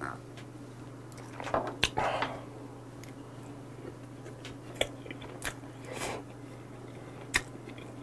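Close-miked mouth sounds of a man chewing food, with wet lip smacks and a few sharp clicks scattered through, the busiest stretch about two seconds in. A steady low electrical hum runs underneath.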